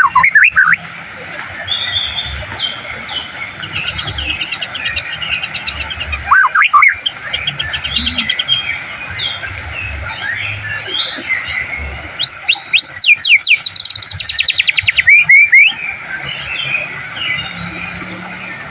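White-rumped shama (murai batu) singing: fast sweeping whistles and rapid trills, loudest at the start, about six seconds in and again from about twelve to sixteen seconds in, with softer warbling phrases in between.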